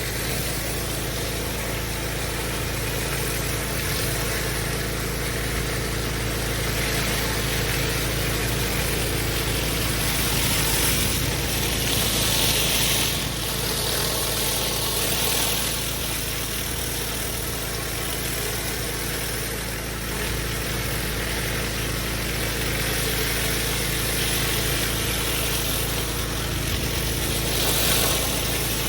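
Engine-driven pressure washer running steadily, with the hiss of the high-pressure water jet on block paving. The hiss grows louder a few times, around the middle and near the end.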